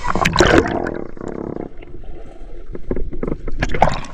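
Water splashing and sloshing close to the microphone, turning muffled partway through, with a few short knocks near the end.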